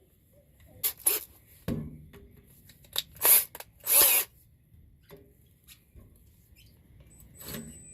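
Several short bursts from a hand-held power tool, each well under a second. The loudest come about three and four seconds in, with quieter tool handling between.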